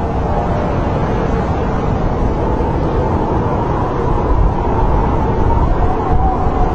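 Snowstorm wind blowing steadily, a deep rumbling rush with a faint wavering whistle over it.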